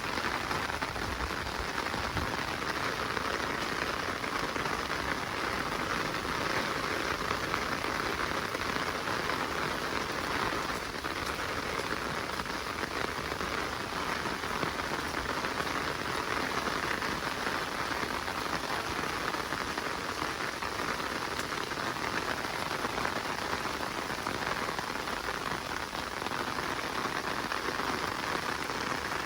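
Steady rain falling in a forest, an even hiss of drops that does not let up.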